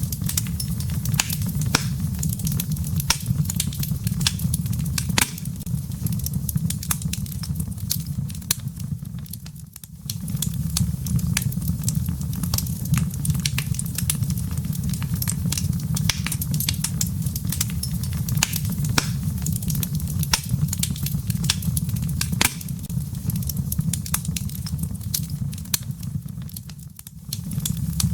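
Wood fire burning in a fireplace: a steady low rumble of flames with frequent sharp crackles and pops of burning firewood. The sound dips briefly twice, about ten seconds in and near the end.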